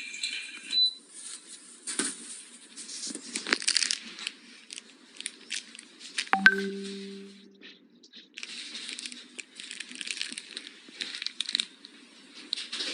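Electric fireplace playing its simulated log-fire crackling sound, irregular pops and crackles with a short lull about eight seconds in. A short electronic beep sounds about six and a half seconds in, as from the unit's control.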